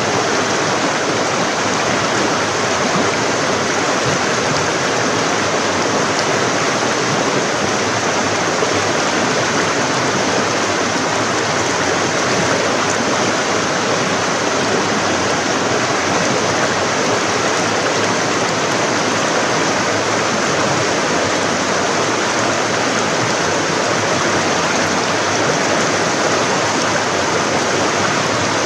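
Forest stream flowing over rocks: a steady, even rushing and babbling of water.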